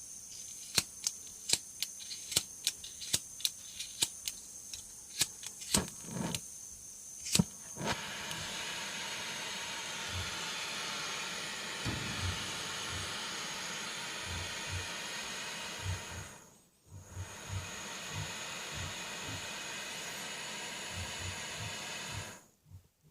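Butane gas soldering iron: a string of sharp clicks over the first several seconds, then a steady hiss of gas that cuts out briefly about two-thirds of the way through and resumes.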